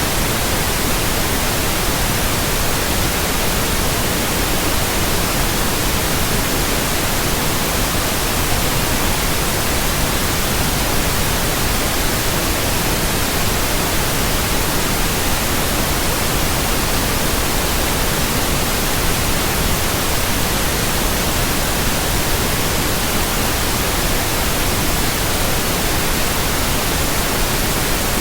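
Steady electronically generated white noise: an even, unchanging hiss across the whole range of pitch, brighter at the top.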